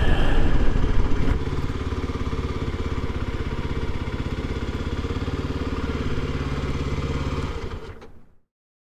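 Kawasaki KLX300 single-cylinder engine dropping off from a higher note about a second and a half in, then idling with an even, rapid beat. The sound fades out near the end.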